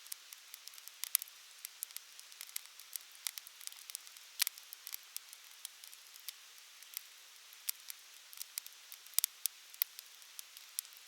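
Campfire crackling: irregular sharp pops and snaps over a soft steady hiss, with a louder pop about four seconds in and a few more near nine seconds.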